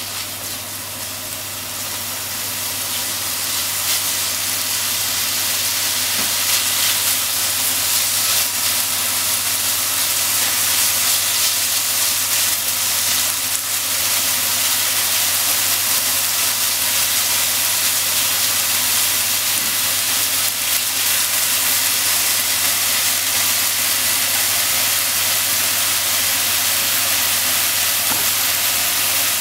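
Ground pork sizzling in a frying pan as it is stirred with chopsticks: a steady frying hiss that grows louder over the first few seconds and then holds, over a steady low hum.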